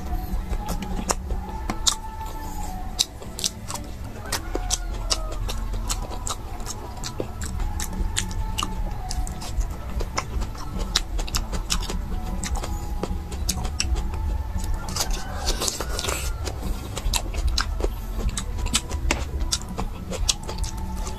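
Close-miked eating: a person chewing and gnawing boiled meat off bones, with many irregular sharp wet clicks and smacks, over a steady low rumble in the background.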